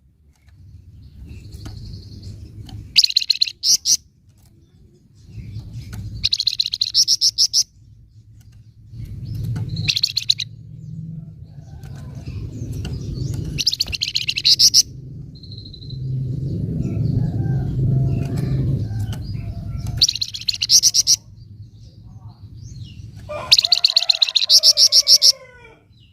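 Flamboyan (Javan fulvetta) giving its 'nyecret' call: about six rapid, high chattering bursts of a second or so each, separated by pauses, over a low rumbling background noise.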